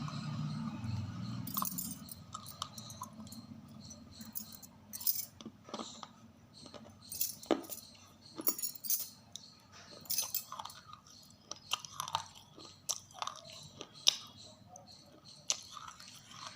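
A person biting and chewing something brittle close to the microphone: irregular sharp crunches and crackles, loudest about fourteen seconds in, after a steady noise in the first two seconds.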